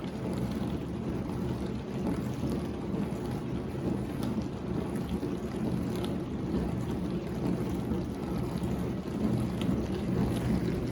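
Whirlpool WDF310PAAB4 dishwasher running its diagnostic test cycle: a steady motor hum with water swishing inside the tub.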